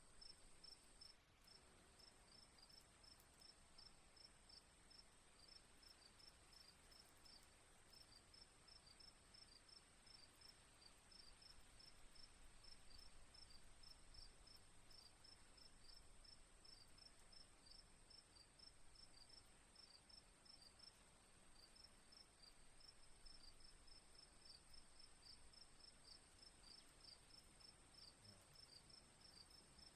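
Faint cricket chirping: rapid, regular high chirps over a steady high-pitched insect hum.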